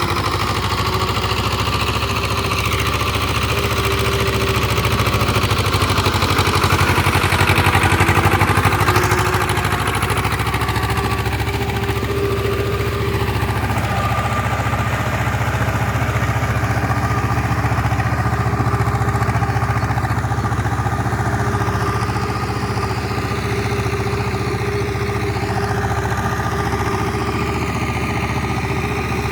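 Tractor diesel engine running steadily under load while working a rotavator through flooded paddy mud, getting a little louder about six to nine seconds in.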